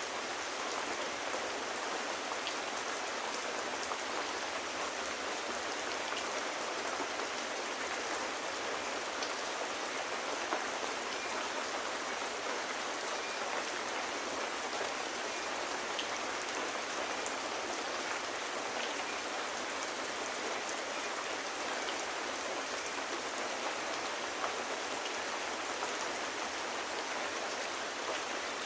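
Steady rain falling, an even hiss with a few faint isolated ticks.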